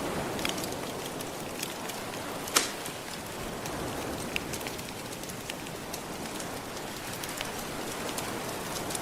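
Wood fire crackling with scattered small pops and one louder pop about two and a half seconds in, over a steady wash of gentle ocean surf.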